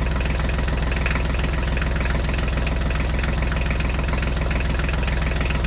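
Tractor engine sound effect idling steadily with an even, rapid beat, laid over the toy scene and starting and stopping abruptly.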